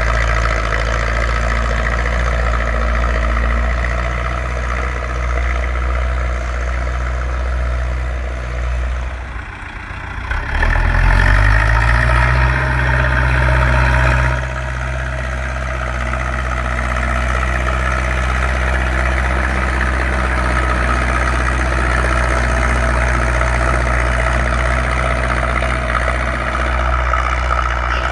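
Zetor 6245 tractor's diesel engine running under steady load while ploughing. About nine seconds in, the engine dips, then its pitch rises and it runs louder for a few seconds before settling back to its steady note about fourteen seconds in.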